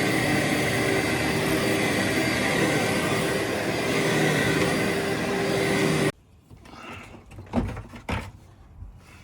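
Vacuum cleaner running steadily with a whining hum, which cuts off abruptly about six seconds in. A few knocks and handling sounds follow.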